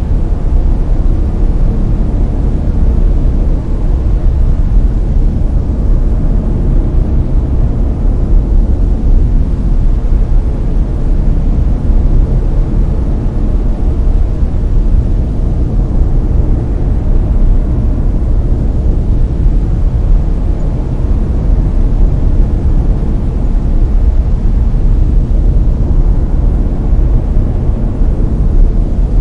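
Layered brown noise: a steady, deep rumbling hiss with most of its weight in the low end and little treble, unchanging throughout.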